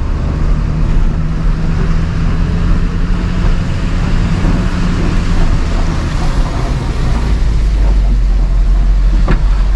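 Plow truck's engine running with a steady low drone as the truck drives; the engine note shifts lower about seven seconds in.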